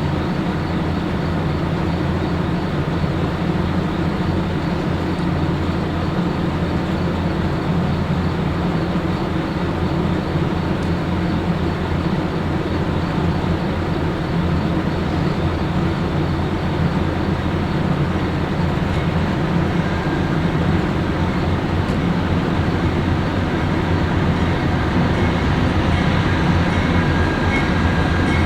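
A train running by: a steady low rumble and drone that grows slightly louder near the end.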